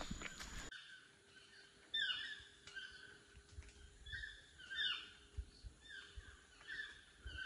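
A bird calling repeatedly in tropical rainforest: short, downward-sliding notes roughly once a second, with a faint steady hum beneath.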